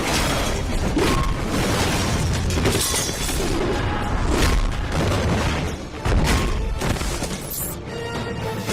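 Loud action-film background score mixed with crashing and booming impact effects, with a sharp hit just after six seconds.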